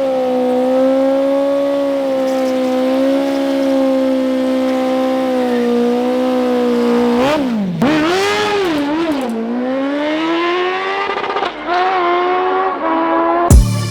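Drag-race vehicle engine held at steady high revs for several seconds, then dipping and wobbling as it launches, and climbing in pitch with short drops at the gear changes as it accelerates down the strip.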